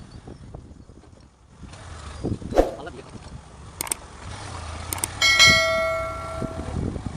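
A metal temple bell struck once about five seconds in, ringing and dying away over a second and a half, after a few sharp knocks, over a low engine rumble.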